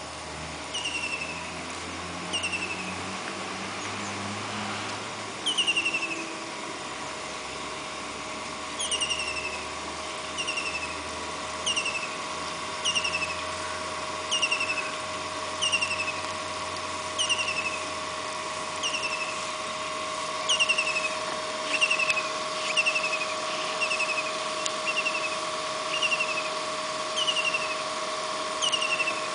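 A bird repeating one short, falling chirp about once a second, over a steady hum.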